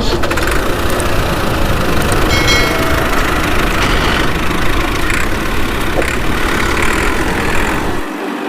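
Engine running steadily at idle, a dense low sound, such as a tractor engine. It cuts off about eight seconds in, when plucked-string music starts.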